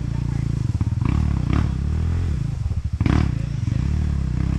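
Two-stroke enduro motorcycle engine revving up and down repeatedly, its pitch rising and falling in swells, as a rider works the bike through a difficult trail section.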